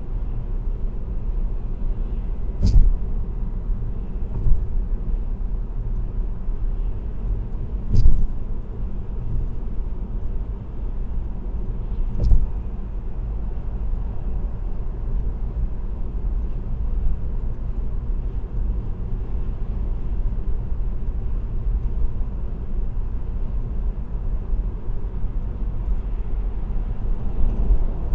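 Car cruising on an expressway: steady low road and tyre rumble, with three short thumps about three, eight and twelve seconds in.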